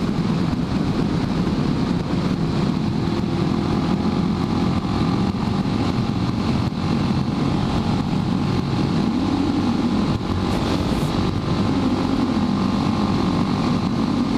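Suzuki DR650's single-cylinder engine running at riding speed, its note rising and falling slightly.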